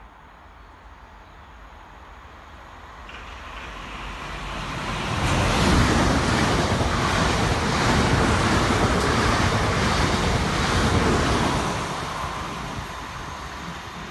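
South Western Railway electric multiple unit running non-stop through the station at speed: a rushing roar of wheels on rail that builds as it approaches, is loudest for about six seconds as the carriages pass, then fades as the train goes away.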